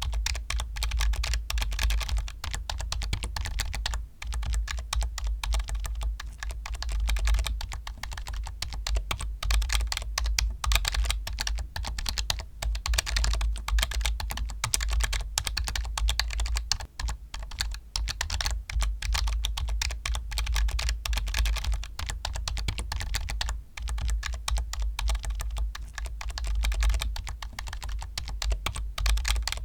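Steady, fast typing on a computer keyboard: a dense, continuous run of keystroke clicks, with a few brief pauses.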